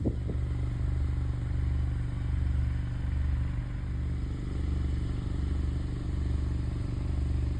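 Motorcycle engine sound idling steadily, with a low throb that swells about once a second.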